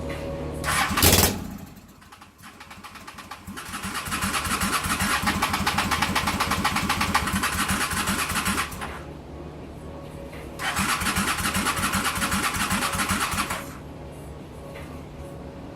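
A motorcycle engine being cranked by its starter in two attempts, about five seconds and then about three, each stopping abruptly without the engine catching: a bike that won't start. A short loud burst of noise comes about a second in.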